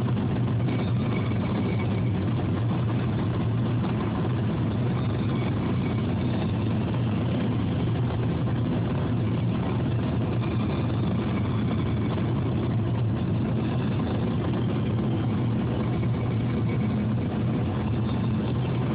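A car on the move: steady engine and road noise with a constant low hum, unchanging throughout.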